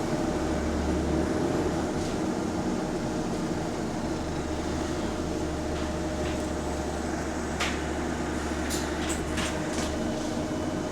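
A bus's hydraulic engine cooling fan running with a weird noise: a steady drone of several held tones. A deeper hum under it cuts out about a second and a half in, comes back about four seconds in and stops near the end. A few sharp clicks come about eight to nine seconds in.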